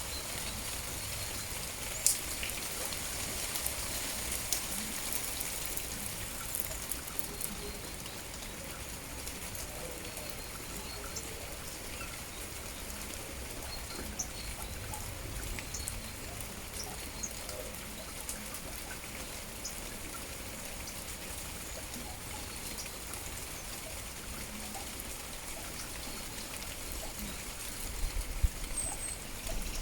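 Steady rain with scattered drops tapping and trickling, and a sharp drip about two seconds in. Faint bird chirps come now and then, and a few low thumps sound near the end.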